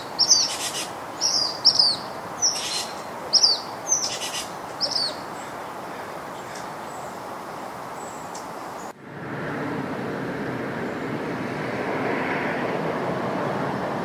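A bird calling in short, high, downward-sweeping chirps, about one or two a second, over steady outdoor background noise; the calls stop about five seconds in. About nine seconds in the sound cuts abruptly to a louder, steady noise without distinct calls.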